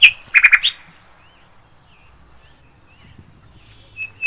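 Sharp, high-pitched bird calls: a quick cluster of loud chirps at the start, a few faint chirps through the quiet middle, then a fast, even run of the same shrill call, about four a second, beginning near the end.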